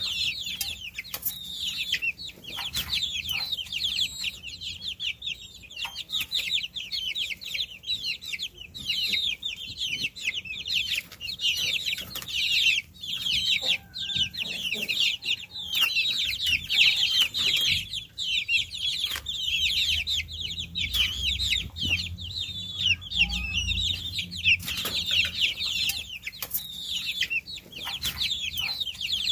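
A brood of baby chicks peeping all at once: a dense, unbroken chorus of short, high chirps, many overlapping, with scattered light clicks.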